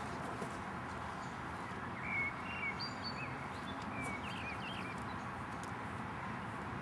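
A songbird chirping a run of short calls and little up-and-down whistles from about two seconds in, over a steady outdoor background hiss.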